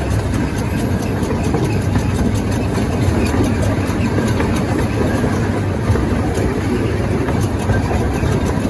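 Zoo train running, heard from on board: a steady low engine hum with the noise and rattle of the moving cars.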